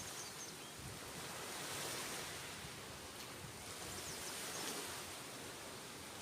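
Steady wash of sea surf and wind that swells and eases, with a few faint high chirps about two-thirds of the way in.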